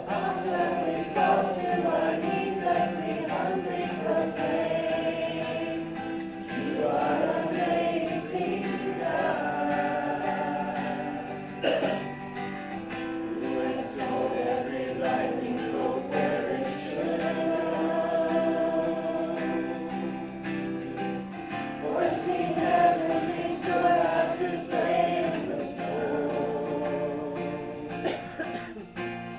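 Congregation singing a worship song together.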